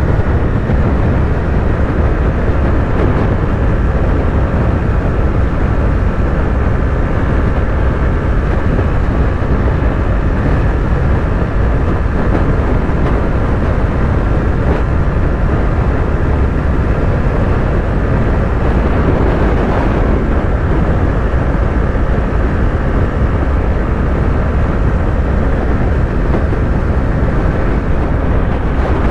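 Yamaha YZF-R3's parallel-twin engine running steadily at highway cruising speed, under a heavy, even rush of wind and road noise.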